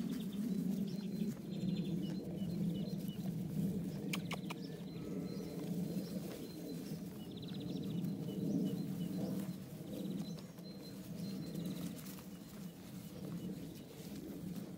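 Birds chirping and trilling faintly over a steady low hum, with a few sharp clicks about four seconds in.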